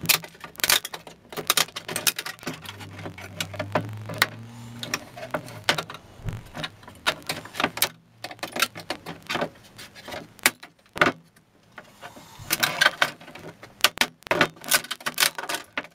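A chisel being worked into the rosewood stock of a brass try square: a run of irregular sharp knocks and clinks, with short pauses between spells.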